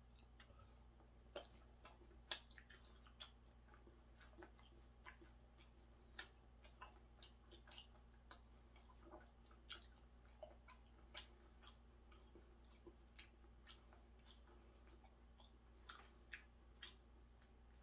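Faint chewing of raw hairtail sashimi: soft, irregular mouth clicks and smacks, about one or two a second.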